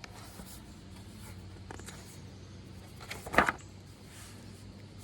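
A page of a picture book being turned: a short papery rustle about three seconds in, over a low steady hum.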